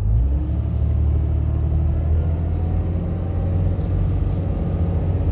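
Pickup truck driving on a snow-covered road, heard from inside the cab: a steady low rumble of engine and road noise, with the engine note rising slightly just after the start.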